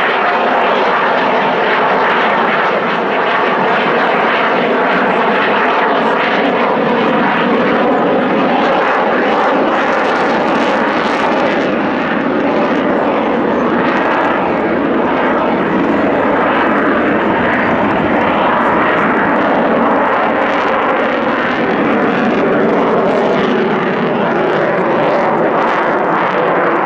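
Fixed-wing aircraft flying a display, its engine noise loud and steady.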